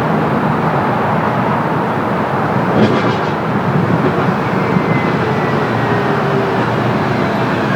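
Tram running: a steady rumble of wheels and motors, with a click about three seconds in and a faint whine that slowly falls in pitch around four to six seconds in.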